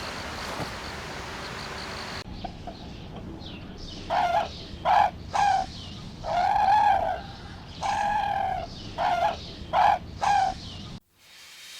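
Chicken calling, about eight calls in all: three short calls, two longer drawn-out calls, then three short calls again, starting about four seconds in. A faint steady buzz is heard for the first two seconds, and the sound cuts off just before the end.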